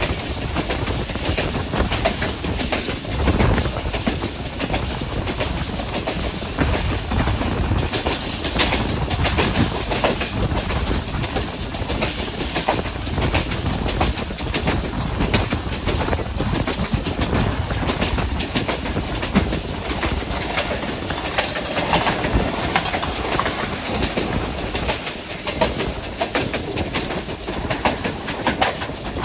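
Passenger train running along the track, its wheels clattering over the rail joints in many short clicks over a steady rumble.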